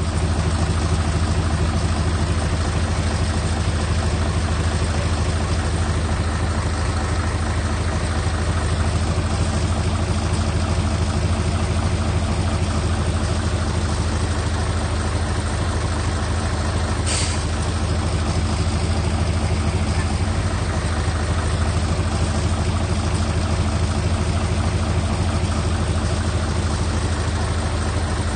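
Heavy earthmoving machine's diesel engine running steadily at a constant low pitch, with one brief sharp click about two-thirds of the way through.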